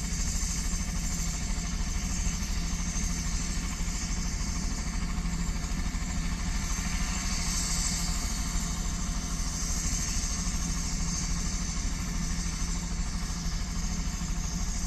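Crop-dusting helicopter running steadily, its engine and rotor noise holding an even level and pitch.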